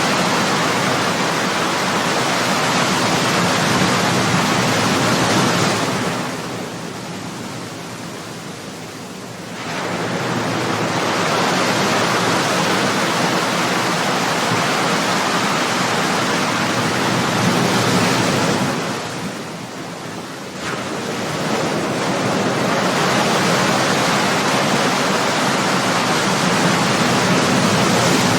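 Ocean waves breaking and washing up on the shore. The surf noise is loud and continuous, easing into a quieter lull twice (about six seconds in and again near twenty seconds) before the next wave surges in.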